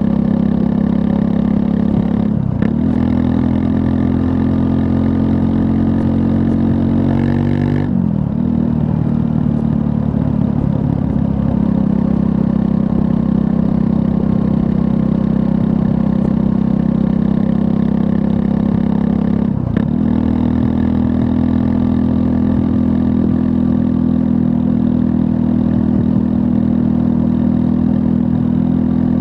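2024 Triumph Scrambler 400 X's 398 cc liquid-cooled single-cylinder engine running under way. The engine note breaks and dips briefly three times, about two and a half, eight and twenty seconds in, and climbs slowly between the first two breaks.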